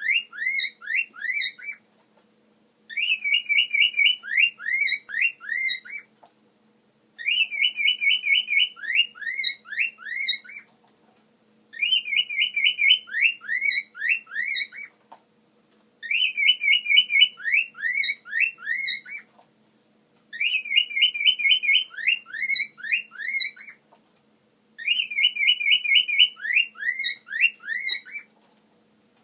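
Cockatiel whistling the same short tune over and over, about once every four seconds. Each phrase opens with a quick warbling trill and runs into a string of short sweeping whistled notes, then breaks off for about a second.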